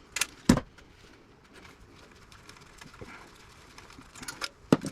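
Sharp metallic clicks and clinks from hand tools and metal parts being handled while pulling apart an old radio chassis. Two clicks come near the start, the louder about half a second in, then a quiet stretch, then a quick cluster near the end.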